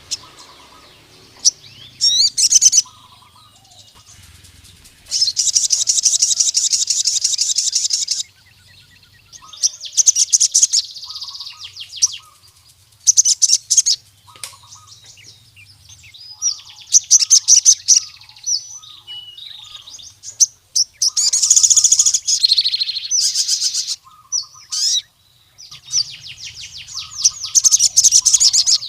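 Male sogon sunbird singing in bursts of fast, high, rattling trills, one lasting about three seconds, the others shorter, with brief pauses between: the loud territorial song it uses to challenge a rival male.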